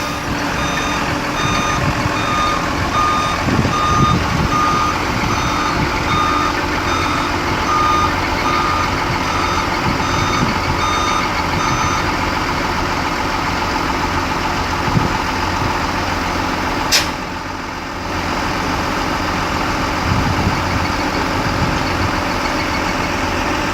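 Changlin 937H loader's diesel engine running, with its reversing alarm beeping about once a second for roughly the first half and then stopping. A single sharp crack with a brief hiss comes about two-thirds of the way in.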